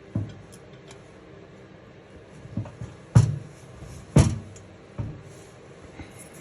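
A handful of short, sharp knocks and clunks of tools and valve-train parts being handled while valve springs are fitted to a motorcycle cylinder head, the two loudest about three and four seconds in.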